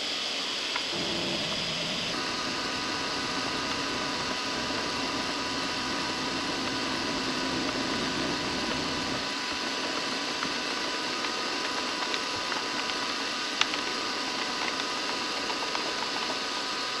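Benchtop milling machine running steadily with its spindle turning a 90-degree chamfer mill: an even hiss with a steady whine whose pitch shifts about two seconds in. There is one sharp click past the middle.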